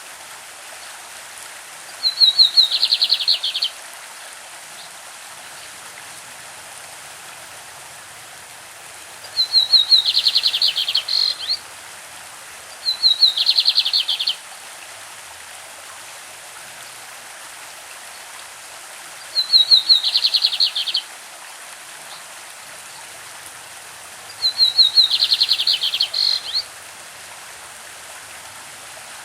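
Lined seedeater (bigodinho) singing its classic song: five short phrases of rapid, high notes, several seconds apart. A stream runs steadily underneath.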